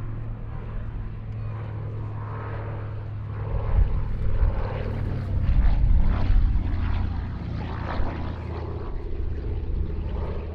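Propeller drone of a Douglas C-41A, a DC-3 with two radial piston engines, passing overhead. It grows louder about four seconds in, peaks around six seconds, then eases off.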